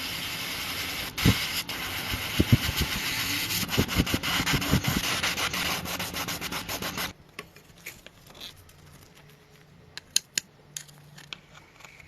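Sanding: a steady scraping rasp with a few knocks, which stops abruptly about seven seconds in. Light clicks and taps follow.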